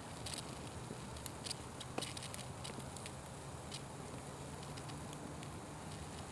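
Wood fire crackling, with irregular sharp pops and snaps, the strongest about two seconds in, over a steady low rumble.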